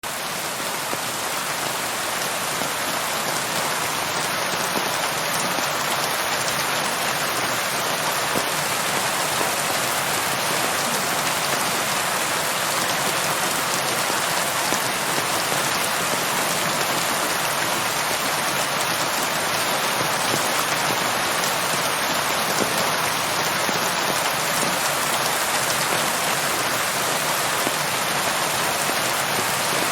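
Steady rain falling: a dense, even hiss of many drops that fades in over the first second and then holds constant.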